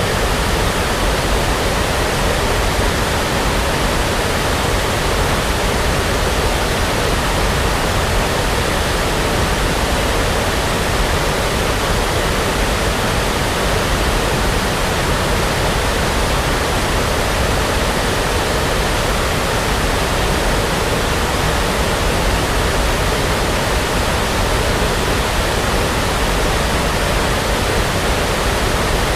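Brown noise, a steady, unchanging rush of synthetic noise.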